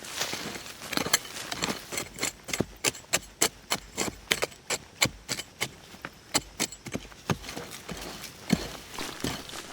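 A quick, uneven run of sharp knocks or taps, about three to four a second.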